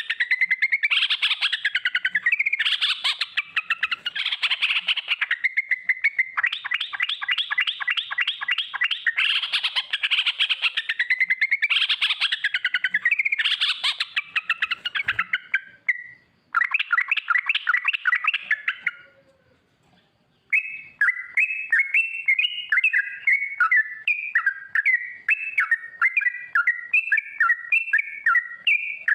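Yellow-vented bulbul (trucukan) singing: long, rapid rolling chatters of notes in repeated phrases. These stop for a moment about two-thirds in, and the song then resumes as a quick string of short bubbling notes.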